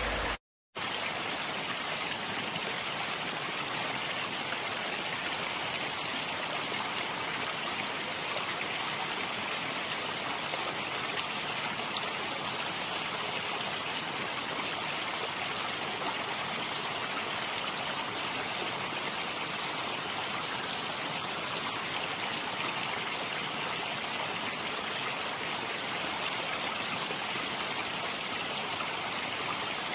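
Steady, even rush of water, bright and without separate splashes, starting after a brief silent break about half a second in.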